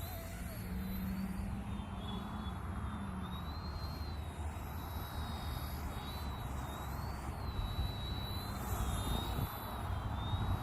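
Eachine E110 mini RC helicopter's motors whining in flight. The high pitch wavers up and down as the rotor speed changes with the pilot's inputs, over a low steady rumble.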